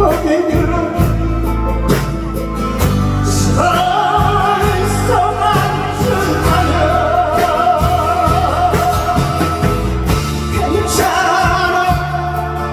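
Loud amplified singing by a pumba street performer over a backing track with a steady beat; a sung line with heavy vibrato comes in about three and a half seconds in, and another starts near the end.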